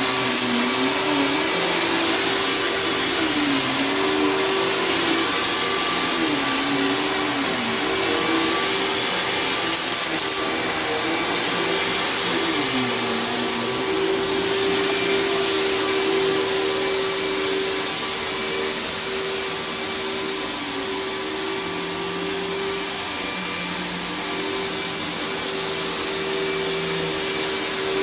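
Riccar 10-amp bagged vacuum running steadily on carpet, its head gripping the carpet under strong suction. Under the steady motor hum and airflow hiss, a second tone wavers up and down through the first half.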